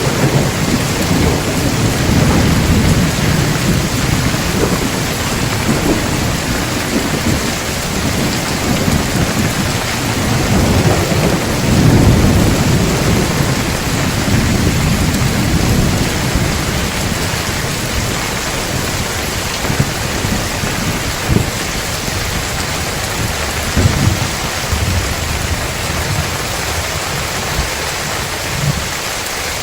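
Heavy rain falling steadily under rolling thunder, the rumble swelling strongest about twelve seconds in, with a few short sharp cracks later on. The thunder dies down near the end, leaving the rain.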